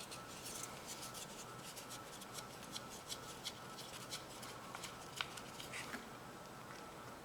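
Faint, irregular light clicks and taps of hands and tools working on lawnmower parts, a few a second, stopping about six seconds in.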